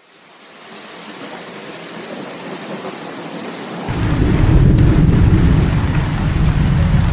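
Steady heavy rain fading in, joined about four seconds in by a sudden deep rumble of thunder that keeps rolling.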